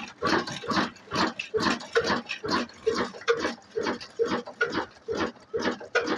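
Single-cylinder diesel 'black engine' driving a flour mill, running at a slow steady speed with a regular chugging exhaust beat of about two to three strokes a second.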